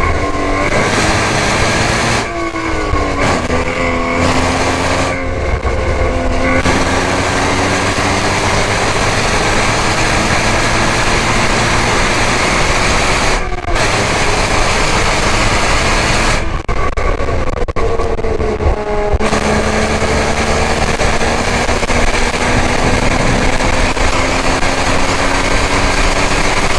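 Porsche 981 Cayman S's 3.4-litre flat-six under hard acceleration, its pitch climbing slowly through several long pulls. The pulls are broken by short lifts off the throttle, the longest one about two-thirds of the way through.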